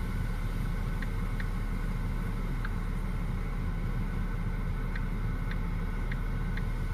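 A parked car's engine idling steadily, heard from inside the cabin as a low rumble. A few faint short ticks come through now and then.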